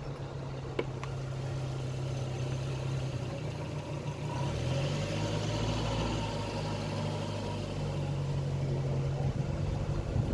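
Car engine running steadily, its pitch shifting about four and a half seconds in.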